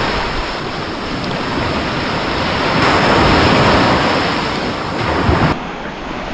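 Surf washing onto a beach with wind buffeting the microphone; the rush of water swells to its loudest about halfway through.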